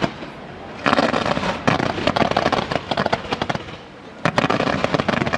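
Fireworks display: rapid volleys of bangs and crackling shell bursts. There is a brief lull just after the start and another short one about three and a half seconds in, before the bursts pick up again.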